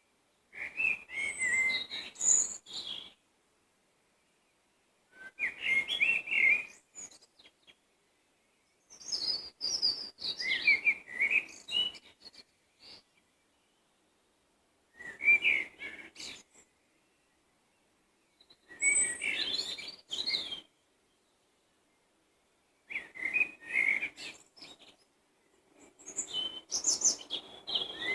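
A songbird singing in varied, warbling phrases of about two to three seconds each, with pauses of about two seconds between them, seven phrases in all.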